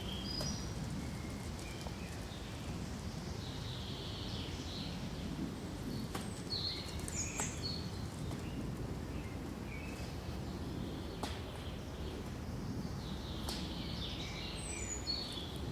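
Pine forest ambience: small birds chirping in short high calls scattered throughout, over a steady low rush of wind through the pines, with a few sharp clicks.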